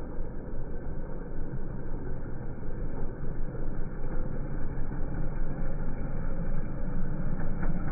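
Honda quad (ATV) engine running steadily with a low rumble.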